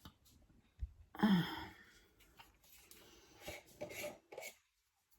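A person's brief breathy vocal sound with a falling pitch about a second in, then a few faint clicks.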